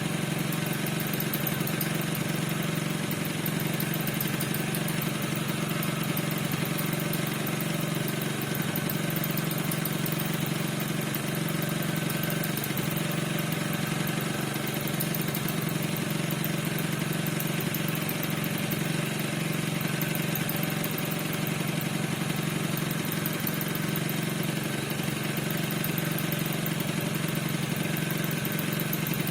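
Two-stroke engine of an NRG 50 scooter idling steadily. The owner says this engine squeaks and does not know why.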